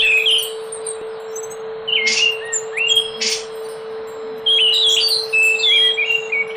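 Anis macan (scaly thrush) singing in short warbled phrases of quick whistled notes. The notes come in a burst at the start, a broken phrase with two short harsh notes about two to three seconds in, and a longer run in the second half. A steady low hum runs underneath.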